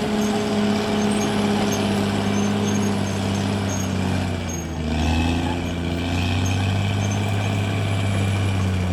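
CAT D6R XL bulldozer's diesel engine running steadily, its note dipping and shifting about halfway through.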